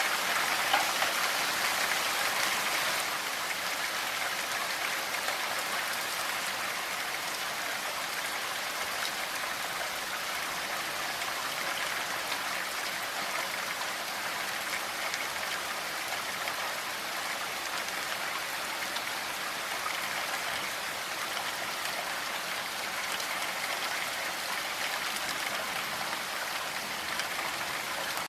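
Steady, gentle rain falling with no thunder: a dense, even pattering hiss, slightly louder for the first three seconds and then holding level.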